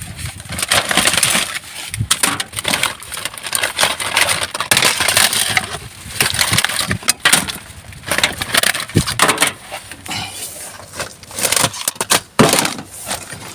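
Hands rummaging through rubbish in a bin: irregular crunching and rustling of bags and packaging, with scattered knocks and clatters.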